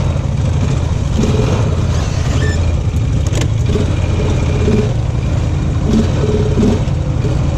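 Off-road vehicle's engine running steadily, with rattling and a couple of sharp knocks about three seconds in.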